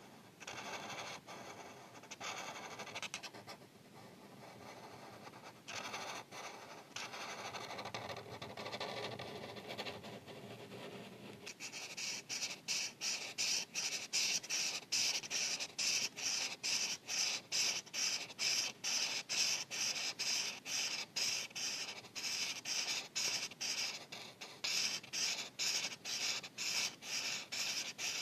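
Felt-tip marker scratching across paper while coloring in. Longer, smoother strokes give way about halfway through to quick, even back-and-forth strokes, about three a second, as an area is filled in.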